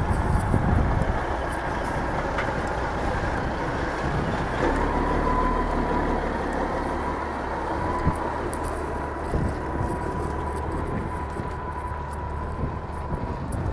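Car engine running steadily at low revs, a continuous low rumble. About a third of the way in, a steadier engine note and a faint high tone join it.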